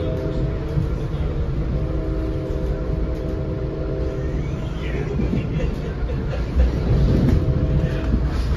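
Steady low rumble of a passenger coach riding on the rails at speed, heard from inside the car, with a droning hum over it that stops about four and a half seconds in; the rumble grows louder in the later seconds.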